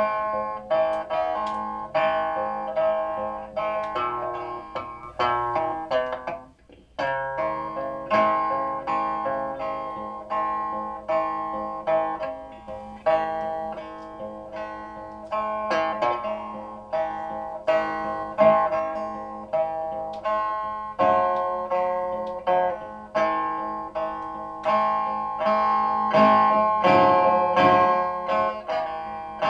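Instrumental music on a plucked string instrument: a run of single plucked notes, each ringing and fading, with a brief pause about six seconds in.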